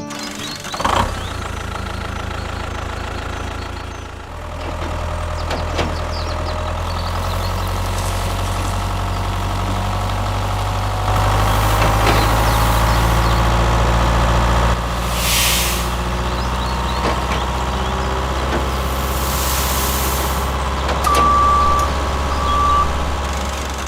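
Vehicle engine running steadily, getting louder for a few seconds in the middle, with two short hisses and two brief beeps near the end.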